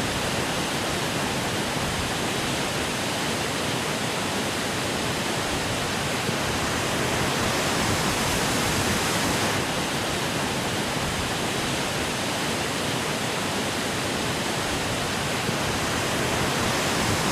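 Fast-flowing river water rushing steadily, an even wash of sound with no break.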